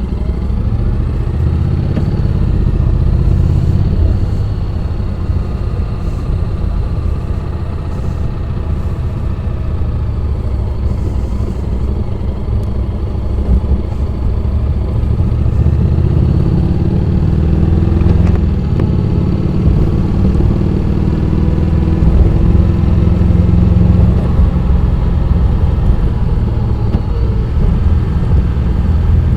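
Honda X-ADV 750's parallel-twin engine running on a downhill ride, its note rising and falling with the throttle and getting a little louder in the last third.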